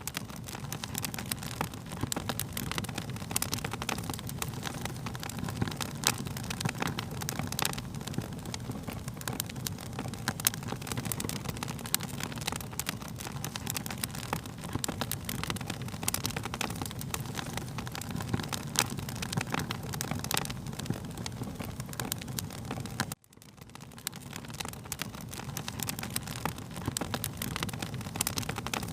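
Fire crackling, with frequent sharp pops and snaps over a steady low rumble of flames. About 23 seconds in the sound cuts out for an instant and fades back up.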